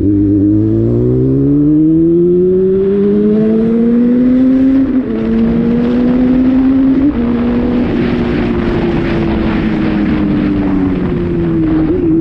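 Honda Hornet motorcycle engine accelerating hard, its pitch climbing and dropping sharply at two upshifts about five and seven seconds in, then holding at a cruise and easing off slightly near the end. Wind hiss on the microphone rises with speed.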